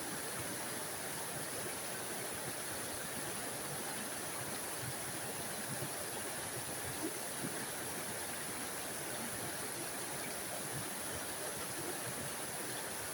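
Small forest waterfall: water falling and splashing steadily in an even rush, brightest in its hiss, with small splashes flickering through.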